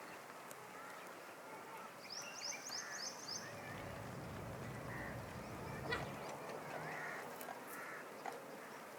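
Several birds calling: a quick high trill of about six notes two to three seconds in, then other scattered chirps and calls. A low rumble runs underneath in the middle.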